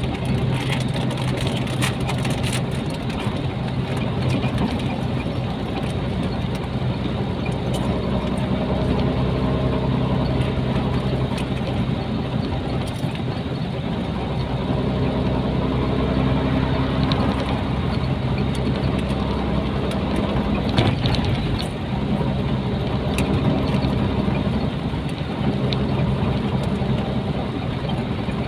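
Nissan Diesel container truck's diesel engine running steadily on the road, its note stepping up and down in pitch a few times.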